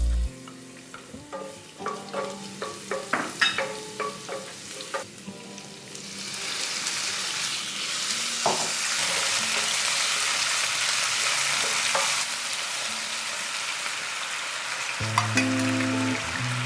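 Food frying in hot oil in a pan, a steady sizzle that starts suddenly about six seconds in. Before it comes a series of sharp clicks and knocks.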